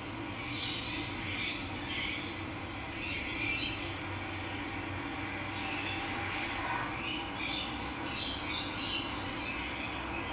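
Wild birds chirping and calling in scattered short notes over the steady rush of running water.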